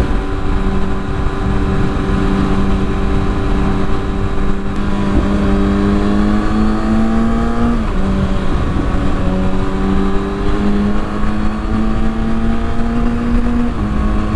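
Kawasaki ZX-6R inline-four engine running through a Yoshimura exhaust, holding steady, then rising in pitch as the bike accelerates, with an upshift about eight seconds in that drops the revs. It then climbs again to a second upshift near the end, over a low rush of wind on the microphone.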